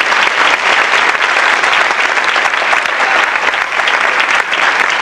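Theatre audience applauding steadily: dense, even clapping.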